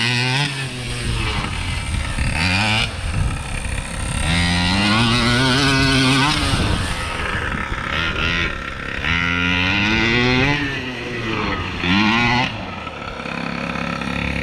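Gas two-stroke engine of a 1/5-scale RC monster truck revving repeatedly, climbing in pitch about four times and dropping back to a low idle in between while the truck is driven; the engine is still in its break-in period.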